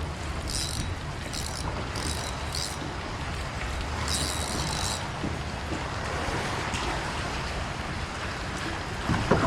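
Fishing reel whirring in five short spells in the first five seconds as a hooked fish is played in, over steady wind buffeting the microphone and water lapping around the kayak.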